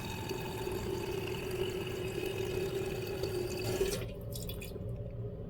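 Toilet tank refilling through a newly installed fill valve: a steady hiss of running water that cuts off about four seconds in as the valve shuts at its set water level.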